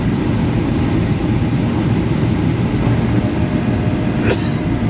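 Boeing 737-800 airliner heard from inside the cabin at a window seat: a steady, loud low rumble, with a short click about four seconds in.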